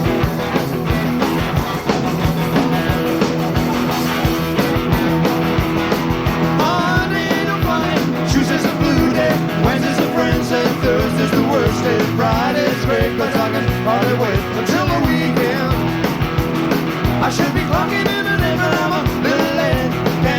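Live rock band playing an up-tempo instrumental passage, with two electric guitars, bass and drums. The drums keep a steady beat while a lead electric guitar bends notes over it.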